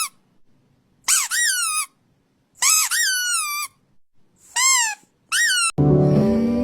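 Puppy whining in four high-pitched cries, each rising then falling in pitch, about a second apart. Music comes in near the end.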